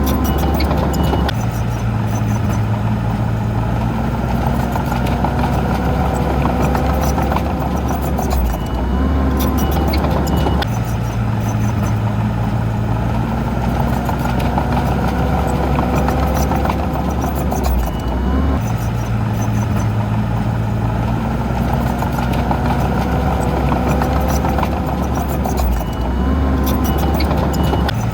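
Heavy diesel engine of an earthmoving machine running steadily under work. Its low note shifts about every eight or nine seconds with a short rising pitch, as the machine changes load or direction.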